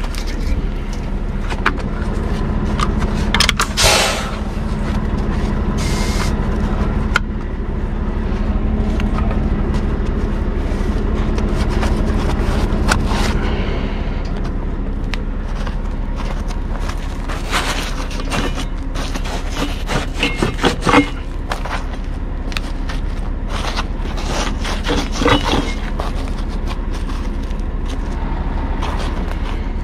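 Scania R580's V8 diesel truck engine running steadily, with scattered short knocks and rattles.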